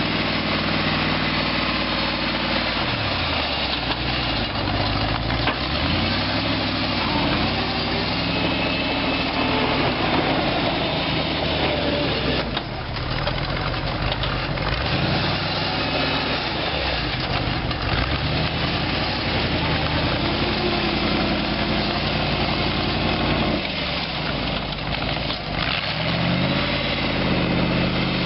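Chrysler 318 small-block V8 engine of a homemade tractor running, its pitch rising and falling several times as the throttle is worked, settling back to a steady idle near the end.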